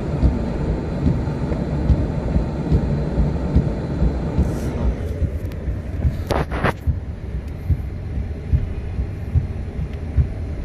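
Ford F-150 pickup being towed through deep snow: a steady low rumble of vehicle and tyres with irregular low thumps. A brief sharper sound about six and a half seconds in.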